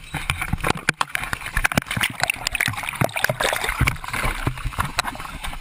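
Seawater sloshing and gurgling in the cabin of a ditched small plane as it floods, with frequent knocks and clatter.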